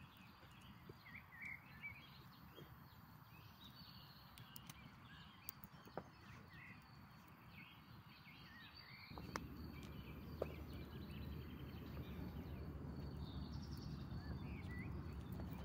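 Faint, scattered chirps of small birds, many short calls throughout, with a few light clicks. A low rumbling noise comes up about nine seconds in and stays to the end.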